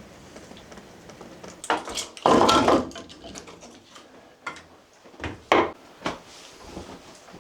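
Household handling sounds: a clatter lasting about a second, then several short separate knocks.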